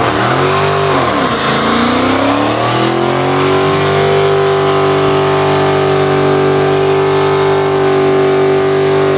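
A car engine revving, blipped up and down a couple of times, then held at steady high revs for about six seconds.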